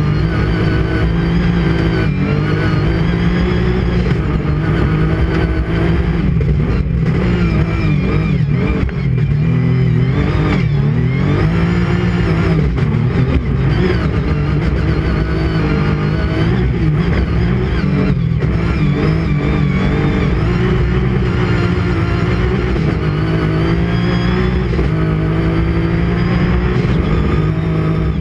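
Rally car engine heard from inside the cockpit while it is driven hard on a stage. The revs keep climbing and falling with throttle, gear changes and braking.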